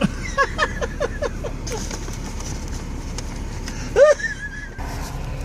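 A person laughing in a quick run of short, falling 'ha' sounds, then one loud high cry about four seconds in, over the steady low rumble of an idling car.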